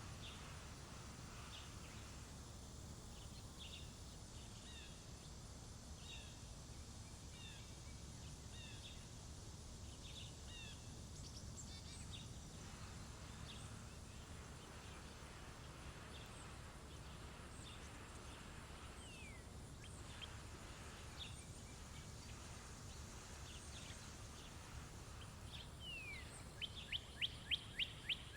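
Small songbirds chirping in short scattered calls over a steady low rumble, with a quick run of about eight loud repeated notes near the end.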